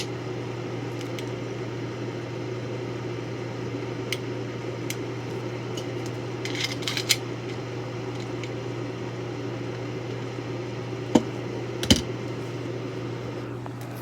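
A steady low hum runs throughout, with a few scattered sharp clicks: a short cluster about seven seconds in and two louder knocks near the end.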